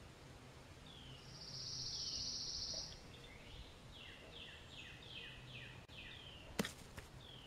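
Faint birdsong: a high buzzy trill lasting more than a second, then a run of quick falling chirps. One sharp click comes near the end.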